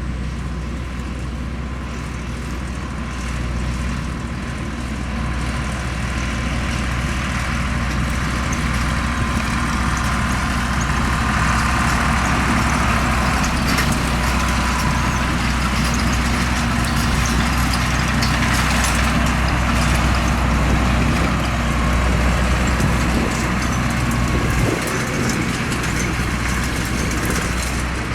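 Farm tractor engine running steadily, a continuous low rumble with a broad hiss over it.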